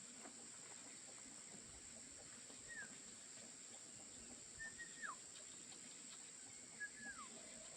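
A bird calling three times, about two seconds apart. Each call is a short note that slides down in pitch, heard over a faint steady high hiss.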